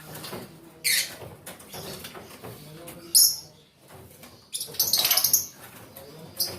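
Lovebirds giving short, shrill, high-pitched chirps: single calls about a second in and about three seconds in, a quick run of calls around the five-second mark, and one more near the end.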